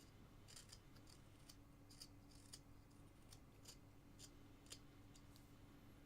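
Faint, short slicing cuts of a carving knife paring basswood, about a dozen small irregular strokes roughly two a second, over a steady low electrical hum.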